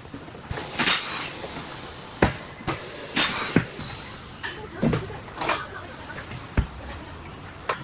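Irregular knocks and clanks, some sharp, with a few short hissing bursts between them.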